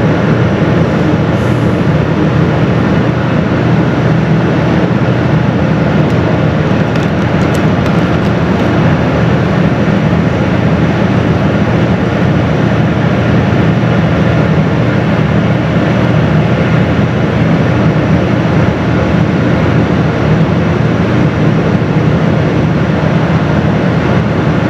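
Steady, loud rumble aboard a moving car ferry, with no breaks or changes.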